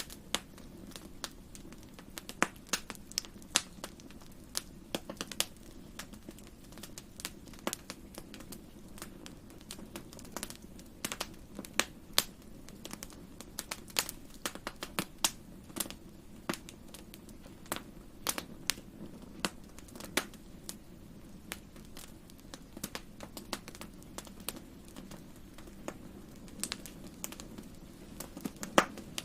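Wood fire burning in a fireplace, crackling with irregular sharp snaps and pops over a low steady rumble of the flames.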